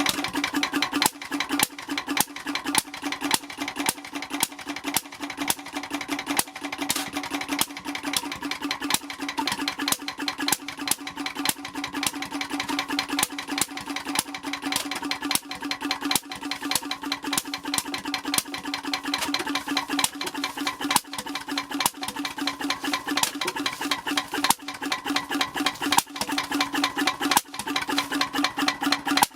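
10 hp H V McKay Sunshine type C portable engine running steadily, with a fast, even clatter and some stronger strokes here and there.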